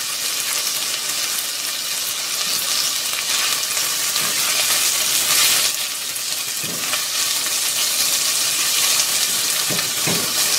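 Chopped onion, garlic, ginger and Thai chilies sizzling steadily in oil in an enameled cast-iron Dutch oven. From about halfway through, a silicone spatula stirs and scrapes across the bottom of the pot.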